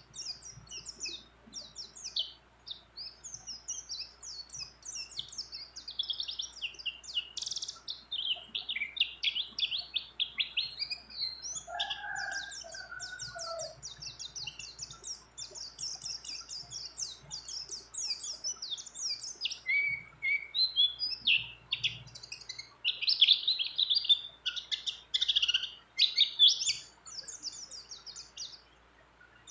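White-eye (pleci) singing a long, unbroken, fast-paced song of rapid high chirps and trills. A brief lower warble comes about twelve seconds in.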